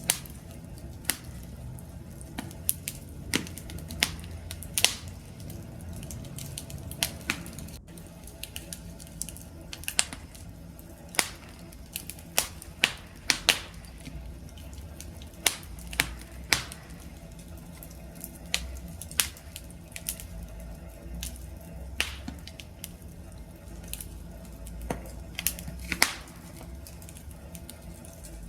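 Wood fire crackling: irregular sharp pops and snaps from the burning logs, a few each second, over a low steady rumble of the flames.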